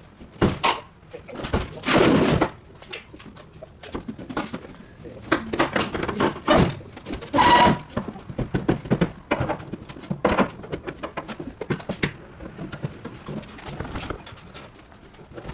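A run of irregular knocks and clanks, as of work with tools and building materials, with a brief ringing tone about halfway through.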